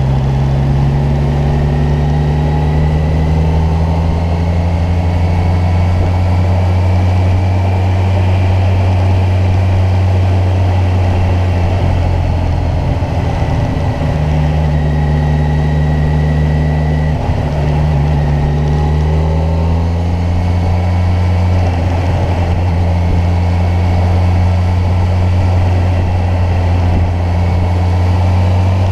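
Kawasaki Ninja 1000's inline-four engine running while the motorcycle rides along, its pitch drifting slowly up and down with the throttle and briefly dipping about seventeen seconds in, over road and wind noise.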